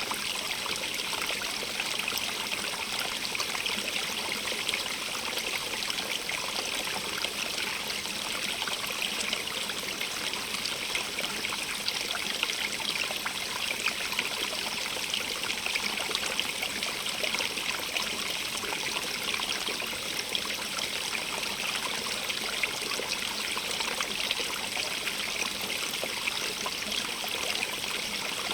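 Running water in a stream, a steady splashing and trickling with its brightest part in the high middle range and no change throughout.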